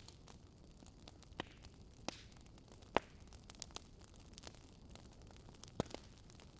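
Wood fire burning in a fireplace: a steady low hiss with irregular sharp pops and crackles, the loudest about three seconds in.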